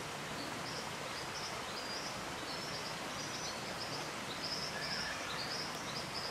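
Faint, short, high bird chirps repeating over a steady hiss of bush background noise.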